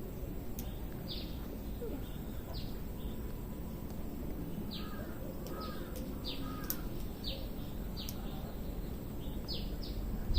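Birds calling: about a dozen short, high, falling chirps spread through, with three lower arched calls in quick succession about five seconds in, over a steady background hiss.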